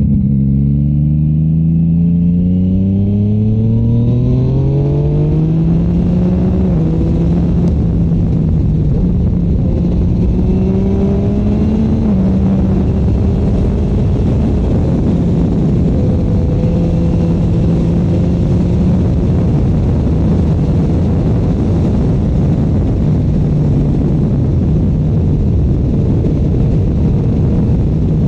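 Yamaha MT-09's inline-three engine through a Shark Street GP exhaust, pulling hard with its note climbing over the first six seconds or so, then holding a fairly steady note at speed with small rises and falls. Heavy wind rush runs under it.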